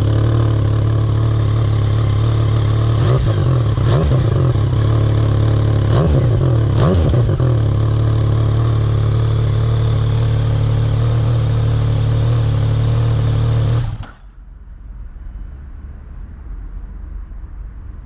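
Yamaha XSR900's three-cylinder engine running through an Akrapovic titanium full exhaust with a home-made cut and drilled DB killer, idling with a bassy exhaust note. It is blipped in two short spells, about three and six seconds in. The engine sound stops about fourteen seconds in.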